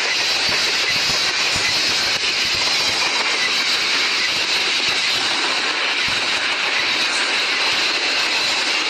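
Long freight train's wagons rolling past on the rails, a steady, dense noise of wheels on track.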